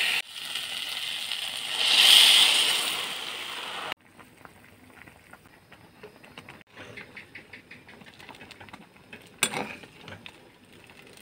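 Lentils and elephant apple pieces sizzling as they are stir-fried in hot oil in a wok, loudest about two seconds in. About four seconds in the sizzle cuts off, leaving the faint bubbling of the dal boiling in water, with a spatula scraping the pan twice near the end.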